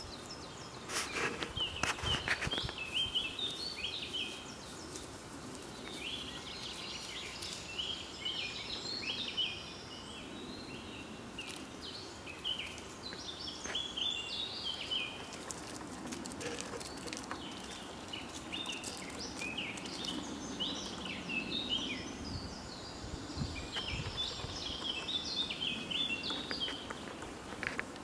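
Small birds chirping and singing in short repeated phrases, with a few sharp clicks in the first couple of seconds.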